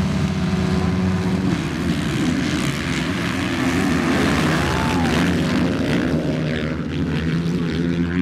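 Dirt bike engines running and revving as the bikes ride around a motocross track, their pitch rising and falling.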